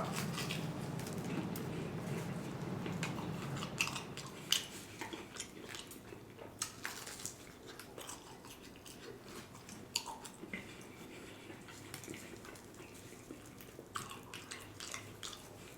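Close-miked eating: biting into and chewing a fried Chicago-style pizza puff, with scattered wet mouth clicks and smacks, busier in the first half and quieter toward the end.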